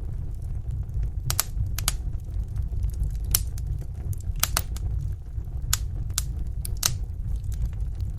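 Fire in a fireplace crackling, with irregular sharp pops over a steady low rumble.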